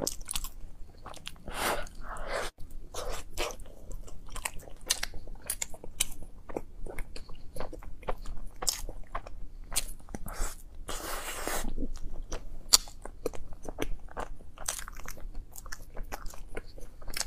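A woman biting into a soft bread roll filled with chocolate sauce and chewing it, with many small wet mouth clicks and smacks.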